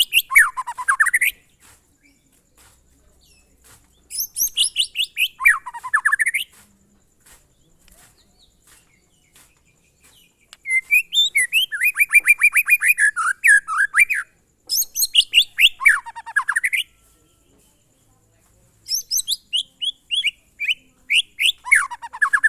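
White-rumped shama (murai batu) singing in separate bursts of rapid notes with short pauses between them. Most phrases slide down in pitch from very high to low, and one is a long run of the same note repeated many times.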